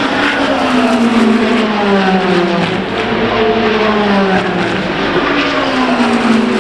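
Racing car engines on track, the engine note falling slowly in pitch, twice, as the cars pass and pull away or lift off.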